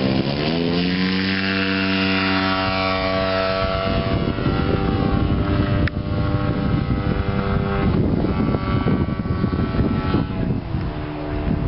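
Gas engine of a giant-scale RC Extra 330L aerobatic plane running with its propeller, revving up in the first second and holding a steady high pitch, then changing throttle midway and easing off near the end.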